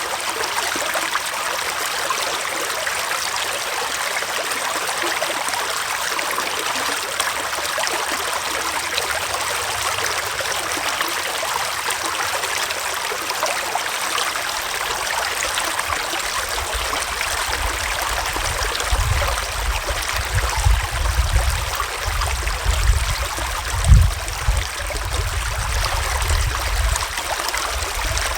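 Small forest stream flowing and trickling steadily. In the second half, low rumbling buffets come and go under it, the strongest about two-thirds of the way through.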